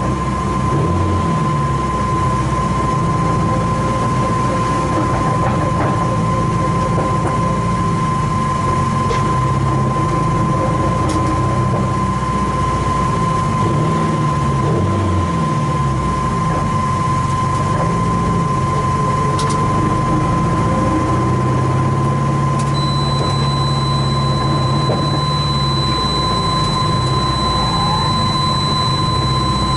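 Race car's engine heard from inside the car, its pitch rising and falling with throttle and gear changes, with a steady high-pitched tone running alongside it.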